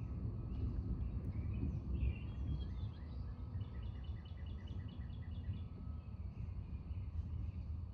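Birds singing, including a quick trill of about ten evenly repeated chirps around the middle, over a steady low rumble of outdoor noise.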